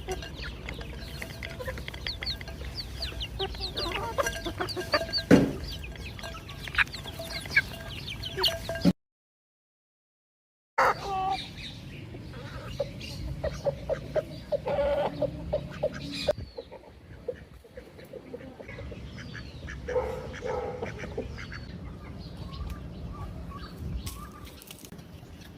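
Free-range hens clucking, with many short high peeps from chicks. About nine seconds in, the sound drops out entirely for roughly two seconds before the clucking and peeping resume.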